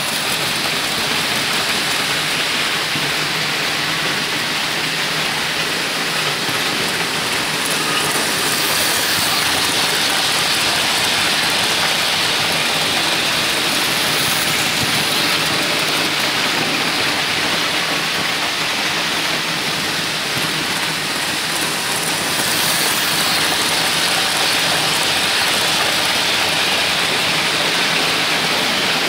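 Märklin model train running on its track, a steady rushing whir of motor and wheels that grows a little louder about eight seconds in and again about twenty-two seconds in.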